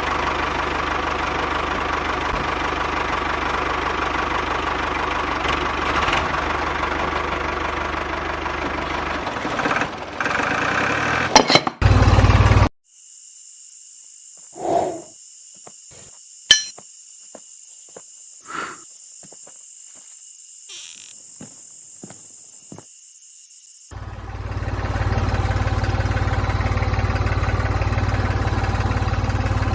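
Mini diesel engine running steadily. The sound drops away sharply after about twelve seconds, leaving a quiet stretch with a faint high whine and a few short knocks, and the engine is heard running again for the last six seconds or so.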